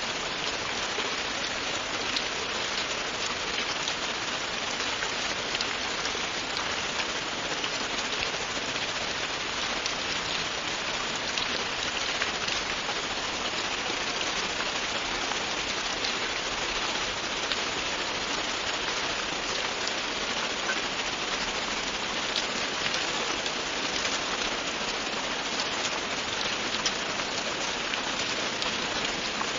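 Steady, continuous rain falling on a surface, a constant hiss dotted with small individual drop ticks.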